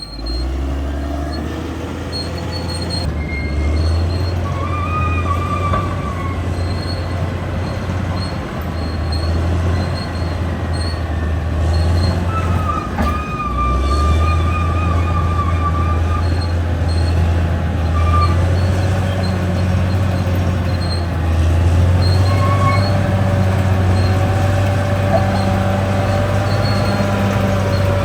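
Crawler bulldozer working: its diesel engine runs steadily under load, with wavering high metallic squeals from the steel tracks recurring every few seconds.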